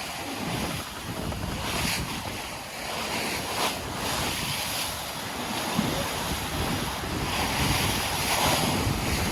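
Water rushing past the hull of a J/105 sailing yacht as it surfs down a wave at speed, with wind buffeting the microphone. The rush swells briefly about two and three and a half seconds in and again near the end.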